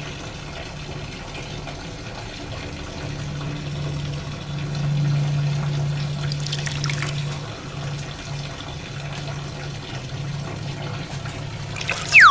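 Water trickling and pouring steadily, with a low steady hum underneath.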